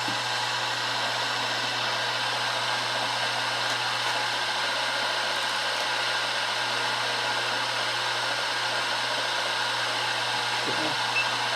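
Milling machine running at a steady speed, its spindle turning a half-inch edge finder while an edge of the workpiece is touched off. The machine gives an even hum with a high whine.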